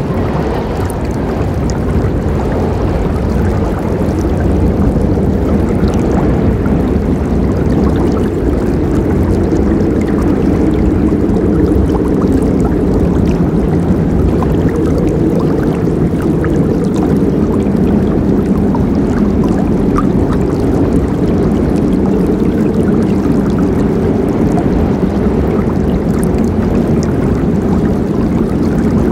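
A forest river flowing, a steady deep rush of moving water with no break.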